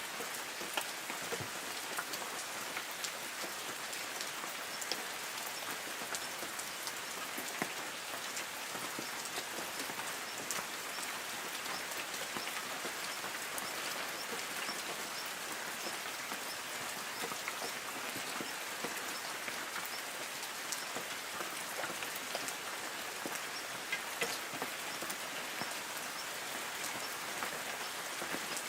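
Light rain falling steadily on forest trees: an even patter with many individual drops ticking on leaves.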